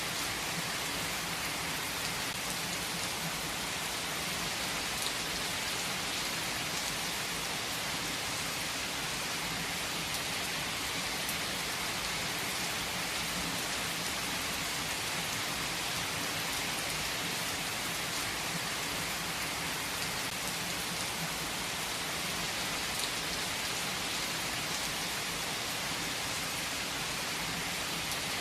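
Heavy rain falling steadily on surfaces, a dense even hiss with faint scattered drop ticks.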